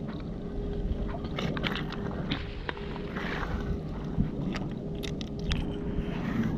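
Crunching and scraping of stones and shingle underfoot and underhand on a muddy river foreshore, with scattered sharp clicks, over a steady low rumble and faint hum.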